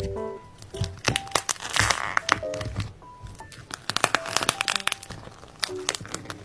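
Background music with a run of sharp clicks and crinkling handling noises, the densest crinkling about two seconds in.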